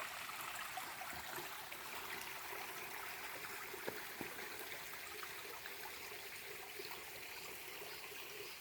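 A small shallow forest stream trickling and babbling steadily over and between mossy stones, with scattered small splashes and plinks.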